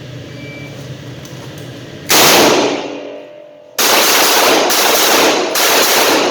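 Handgun shots: one shot about two seconds in, ringing out, then several more in quick succession from about four seconds on.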